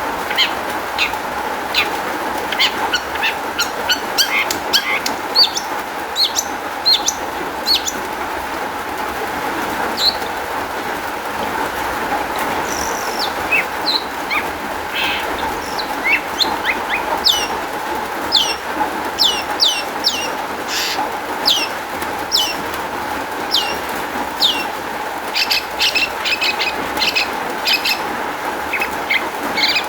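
Long-tailed shrike singing a fast, varied chatter of short, sharp, falling notes in quick runs, over a steady background hiss.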